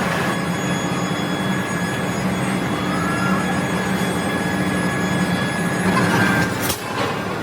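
Factory machinery running steadily: a low hum with thin high whines over a noisy din, a short rising whine about three seconds in, and a sharp knock near the end.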